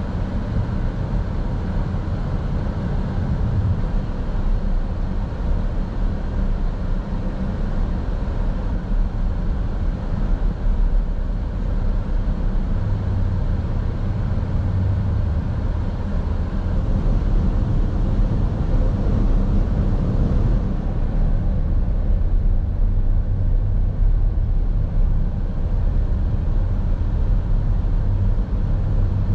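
Steady road and engine noise of a car driving, heard from inside the cabin as a low rumble.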